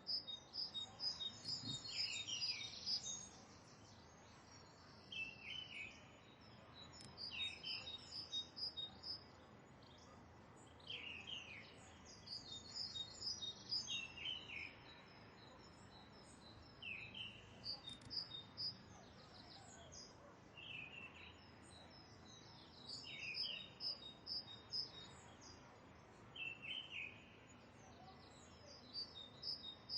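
Birds chirping: short falling calls repeat every second or two, with bouts of higher, rapid twittering over them.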